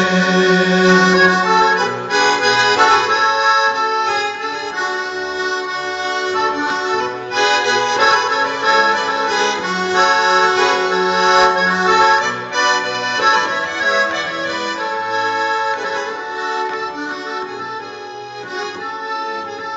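Accordion playing an instrumental interlude between sung verses: a melody over chords and bass notes, getting a little quieter near the end.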